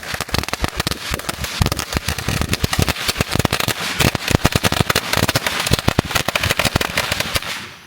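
A firework going off on the ground: a dense, rapid string of sharp crackling pops that cuts off near the end.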